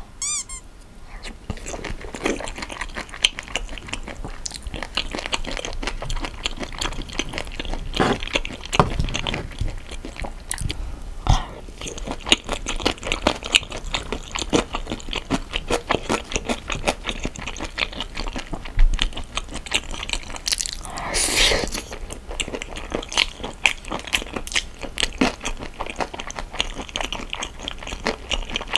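Close-miked eating sounds of raw marinated shrimp with rice: wet chewing and biting with many small clicks and crackles.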